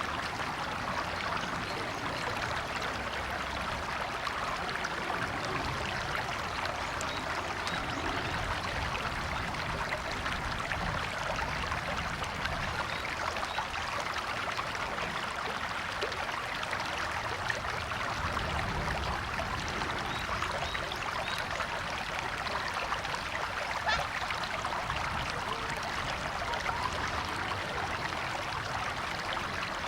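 River water flowing over stones, a steady babbling rush with small trickles and splashes.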